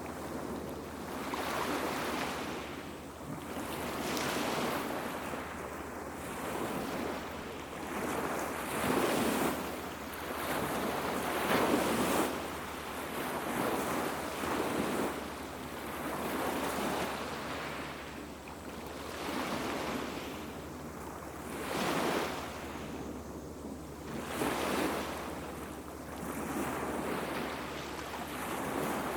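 Small waves washing onto the beach, each surge swelling and falling back about every two to three seconds.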